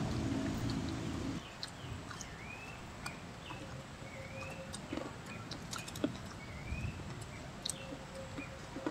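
A bird calling repeatedly outdoors, each call a short arched chirp, every second or two. Small sharp clicks come from people eating with their fingers and chewing. A low drone fades out about a second and a half in.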